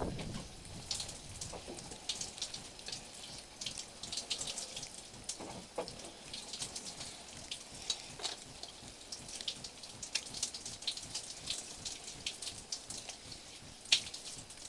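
A light, irregular patter of many small ticks, like drops falling on a surface, with one sharper tick near the end.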